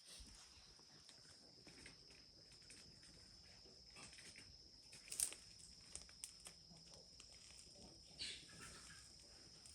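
Faint steady insect chorus, like crickets, with a few scattered small clicks and taps; the sharpest tap comes about five seconds in.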